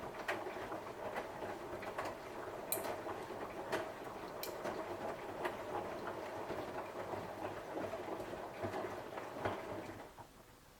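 Samsung washing machine on its 60 °C cotton cycle, the drum turning and churning the wet laundry with a steady swishing noise and light scattered clicks. The churning stops about ten seconds in as the drum comes to rest.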